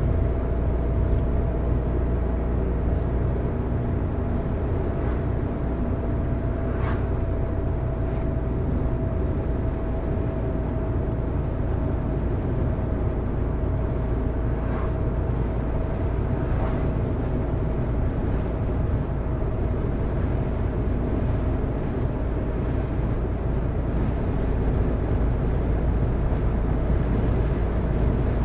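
Car driving steadily on a mountain road: continuous engine and tyre-on-road noise, deepest at the low end, with a faint steady whine that slowly sinks in pitch and a few faint ticks.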